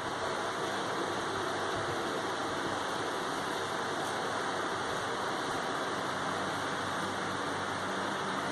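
A steady rushing hiss with no distinct events.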